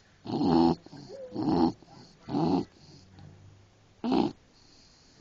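English bulldog snoring: four loud snores, the first three about a second apart and the last after a longer pause.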